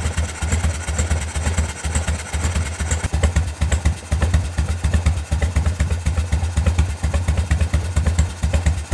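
Carbureted Harley-Davidson 45-degree V-twin idling very slowly, with an even, lumpy beat of separate exhaust pulses.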